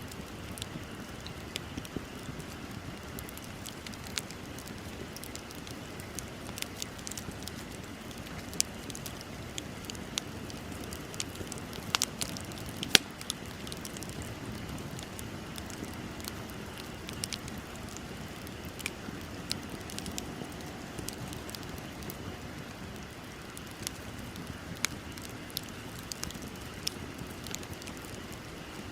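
Wood bonfire burning: a steady low hiss with irregular sharp crackles and pops throughout, two of them louder near the middle.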